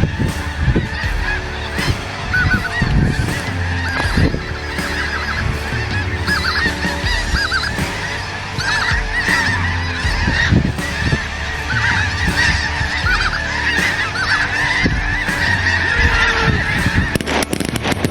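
A large flock of greater white-fronted geese (specklebellies) calling: many overlapping high yelps. A few sharp cracks come near the end.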